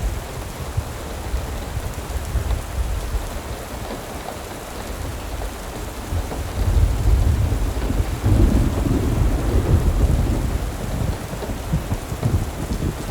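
Steady rain with a deep, uneven low rumble that swells louder from about halfway through.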